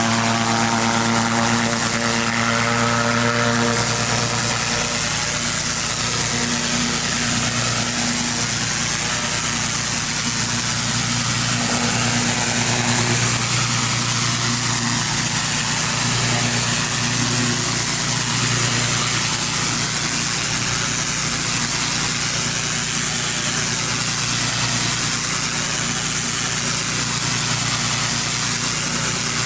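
Pressure washer's petrol engine running steadily under a broad hiss of high-pressure water spray, the hiss wavering slowly as the spray moves.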